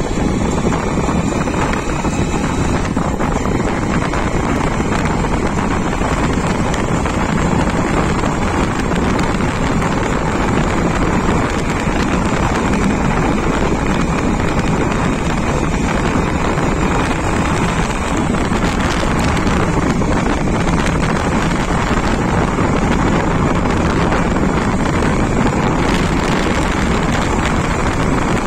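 Steady wind buffeting the microphone over a constant low rumble, with no pauses.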